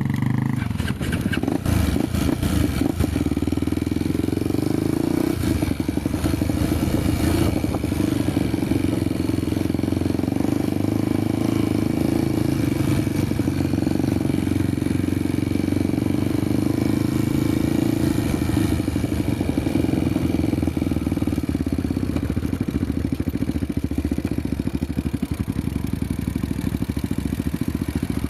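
Honda motorcycle engine running steadily while riding over a dirt trail, with knocks and rattles from the rough ground, most of them in the first several seconds.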